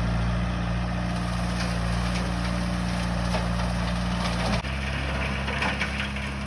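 John Deere compact track loader's diesel engine running steadily under a brush cutter attachment. About two-thirds of the way through, the engine note shifts abruptly, and crackling of brush and wood being broken joins it near the end.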